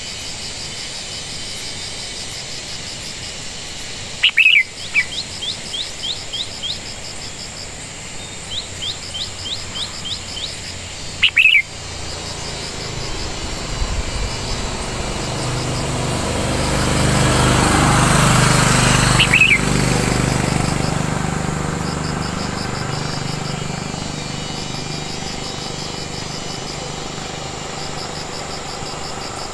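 Birds calling outdoors: a few loud, short falling calls and two runs of quick chirps, over a steady high chorus of insects. About halfway through, an engine passes, swelling to its loudest and then fading away.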